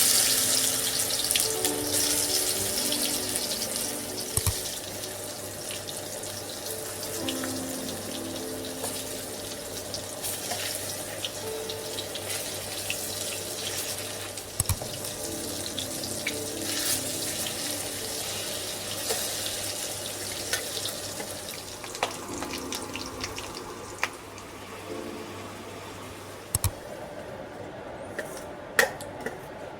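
Water running from a kitchen tap into a sink, a steady splashing hiss, with a few light knocks and clicks along the way. Soft background music plays underneath.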